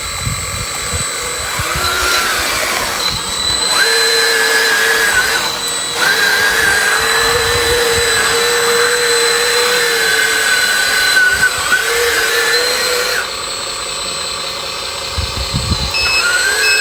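Electric drive motors of a radio-controlled bulldozer whining, the pitch rising and falling as it drives and works, with brief breaks. The whine stops about three quarters of the way through, leaving a steady high hum, followed by a few low knocks and two short beeps near the end.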